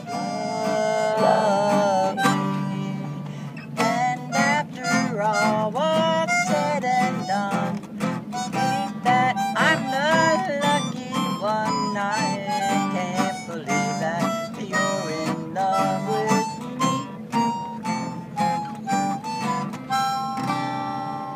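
Harmonica playing a melody with bent, sliding notes over strummed acoustic guitar chords, an instrumental break between sung verses.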